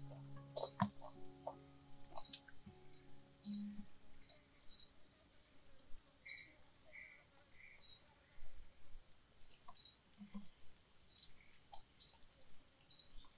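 Small birds chirping: a dozen or so short, high chirps at irregular intervals, with three lower whistled notes in the middle.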